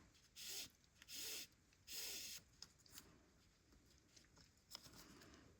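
Yarn being drawn through crocheted stitches, three short soft rasps of yarn rubbing against yarn, then a few faint small clicks of handling.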